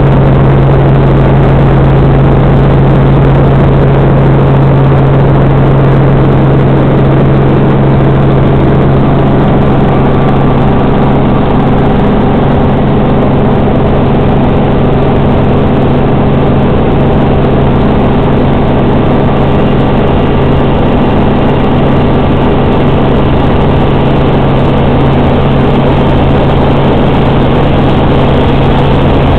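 Robinson R44 Raven I helicopter in steady flight: its six-cylinder Lycoming piston engine and rotors run loud and even, a constant low hum over a dense rush of noise.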